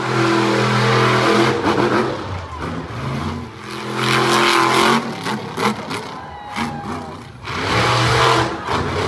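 Monster truck engine revving hard in three bursts, easing off between them.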